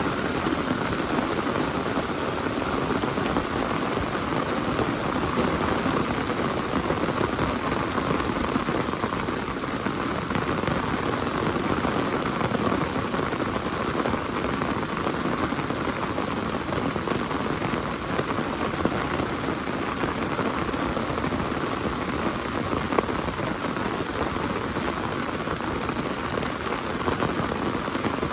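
Heavy rain falling steadily, a dense, even hiss of drops striking the ground and surfaces.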